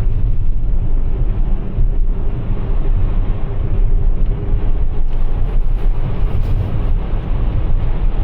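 Cabin noise of a Toyota RAV4 Prime driving through deep snow on Blizzak winter tires: a steady, loud low rumble of tires and road.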